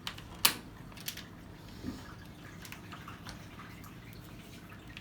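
Water splashing and dripping in the tub of an LG direct-drive top-load washing machine during its wash, with a few sharp clicks, the loudest about half a second in.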